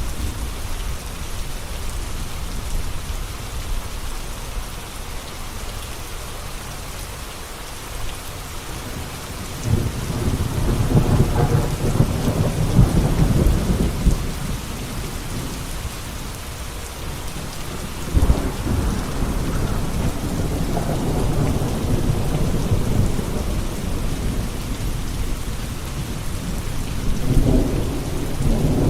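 Steady rain with rolling thunder: a long rumble about ten seconds in, a sudden crack a few seconds later that rolls on for several seconds, and another rumble near the end.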